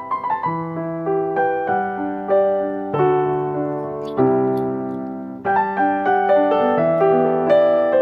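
Background solo piano music: single notes and chords struck every half-second to a second and left to ring and fade.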